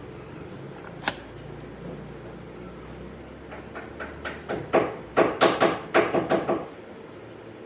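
A single sharp click, then a quick run of knocks or taps on wood, about four or five a second, growing louder and stopping near the end.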